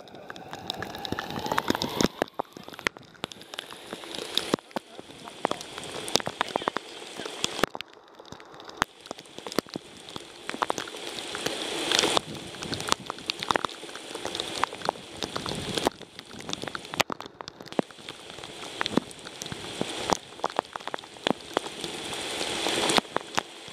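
Rain shower falling, drops striking in irregular sharp taps over a steady hiss that grows louder and eases off a couple of times.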